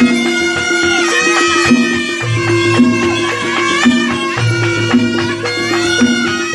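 Jaranan band music: a reedy trompet (shawm) plays a wavering melody over a steady held tone and a repeating pattern of low notes.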